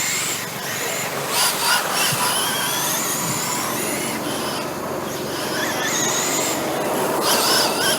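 Several radio-controlled rubber tire trucks running practice laps, their motors giving overlapping high-pitched whines that rise and fall as they speed up and slow down, over steady tire and track noise.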